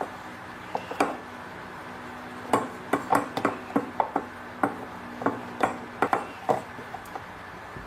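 A quick run of sharp, irregular knocks and taps, about a dozen over four seconds, with a single knock about a second in. A faint steady hum runs underneath.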